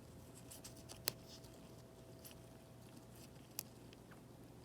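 Faint small clicks and ticks of hand tools handling an iPad's home button ribbon cable, two sharper clicks about a second in and about three and a half seconds in, over a low steady hum.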